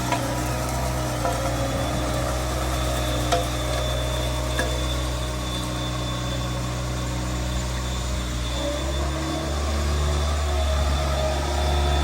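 Bobcat S66 skid steer's diesel engine running steadily while working a Harley rake attachment, getting louder near the end as it comes under more throttle or load.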